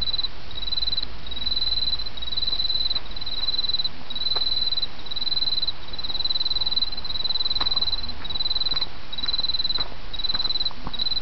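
An autumn insect singing in short high-pitched trills, each about half a second long, repeated roughly every three-quarters of a second. Behind it runs the steady rush of a small stream, with a few faint ticks.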